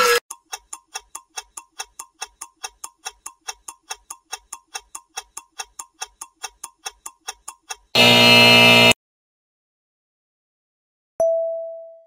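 Clock ticking sound effect, an even tick about four times a second, then a loud buzz lasting about a second like an alarm going off. A single electric-keyboard note sounds near the end.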